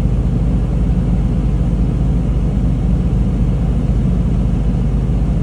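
RAM Cummins 6.7 inline-six turbo-diesel idling steadily, a couple of minutes after a cold start, heard from inside the cab with the heater blowing air from the vents.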